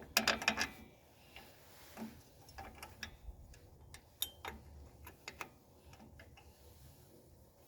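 Sharp metal clicks and taps of rear drum brake hardware being handled and fitted: a quick cluster at the start, then single clicks every half second or so.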